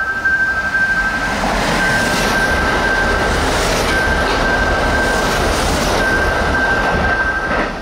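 Electric train passing through a station without stopping: a loud, steady rush of wheel and running noise that drops away near the end. A steady high warning tone sounds over it and breaks off a few times.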